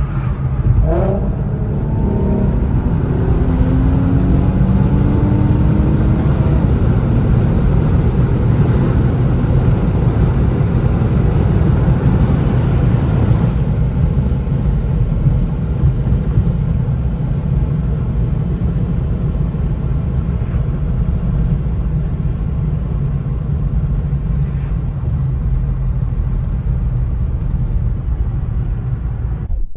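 Car driving: engine and road rumble, with the revs rising in the first few seconds, then a steady low drone.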